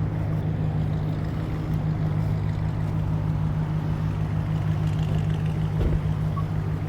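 Steady low hum of an idling car engine, even and unchanging.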